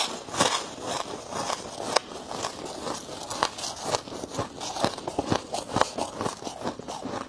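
Dry freezer frost being chewed close to the microphone: a run of crisp, squeaky crunches, about two a second.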